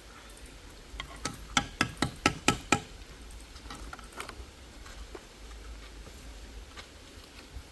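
A kitchen utensil striking cookware: a quick run of about eight sharp, ringing taps about a second in, followed by a few faint ticks.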